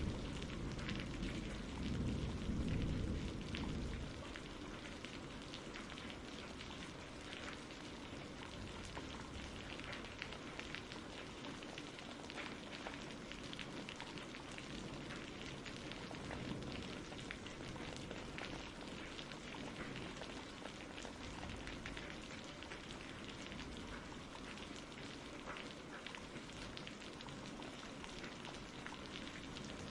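Steady rain falling on a surface, with a dense patter of drops. A low rumble of thunder dies away in the first few seconds.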